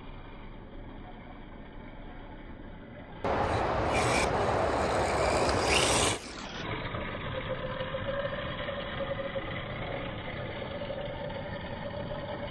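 RC drift car running on its hard plastic tires, which scrape and rasp across the ground in a louder stretch of about three seconds. After that comes a steady, slightly rising motor whine.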